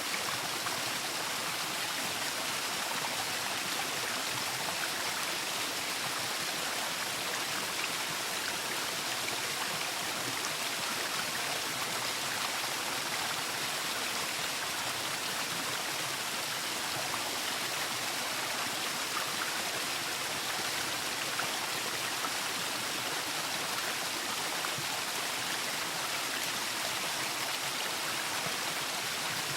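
Waterfall: water falling and splashing in a steady, unbroken rush, with most of its energy in the hiss.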